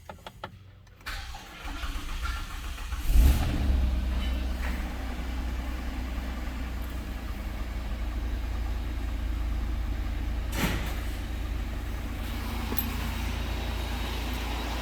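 2006 Dodge Caravan's 3.8-litre V6 being cranked and catching about three seconds in, then idling steadily.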